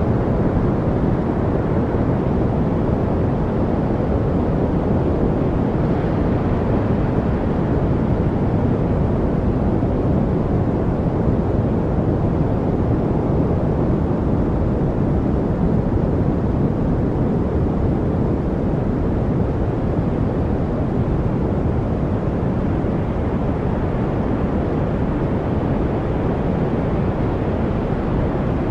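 Steady focus-noise track: an even, deep rushing noise weighted toward the low end, with no birds, drips or other separate sounds standing out.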